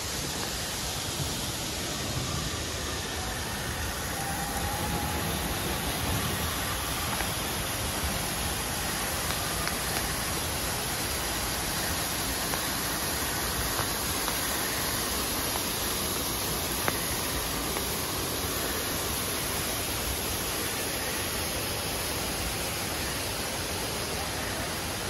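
Steady hiss of falling water: light drizzle and a waterfall spilling down rockwork.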